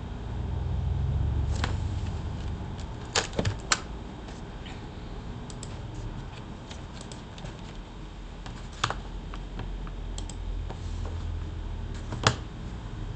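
Scattered sharp clicks and taps, a few louder ones spaced seconds apart, over a steady low rumble of room noise.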